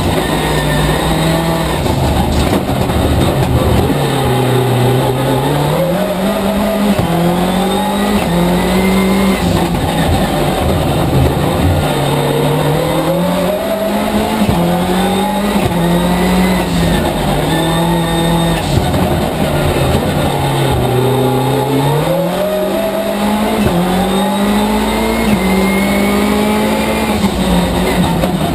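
Mitsubishi Colt rally car's engine heard from inside the cabin. It revs hard, with the pitch climbing and dropping back at each gearshift, then falls away under braking and climbs again through the gears.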